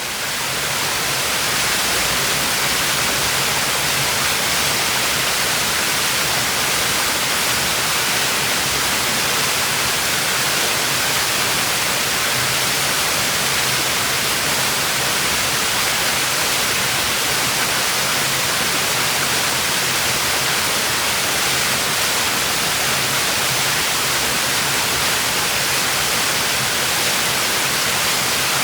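Waterfall: water falling and splashing onto rocks in a steady, unbroken rush, fading in over the first second.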